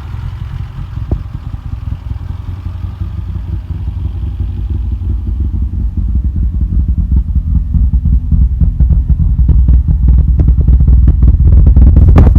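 Toyota 3T-C four-cylinder engine in a TE72 Corolla, built to 11.1:1 compression, running with a low, pulsing exhaust note that grows steadily louder. Sharp crackles come in near the end.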